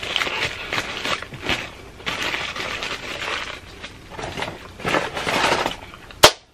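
Close-up crunching and chewing of a crispy fried chicken sandwich, in irregular bursts. Near the end, one loud, sharp hand clap.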